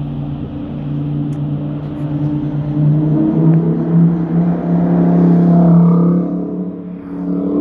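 A supercar's engine running at steady revs, rising slightly in pitch and growing louder about three seconds in, then fading near the end.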